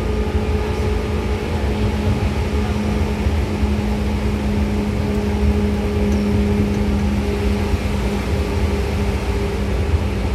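Seibu 2000 series electric commuter train running at a steady speed, heard on board: a continuous low rumble of wheels on rail with an even, unchanging hum from the running gear.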